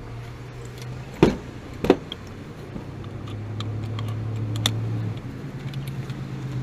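Tools being handled: two sharp knocks a little over a second in, and light clicking and rattling throughout, over a steady low hum.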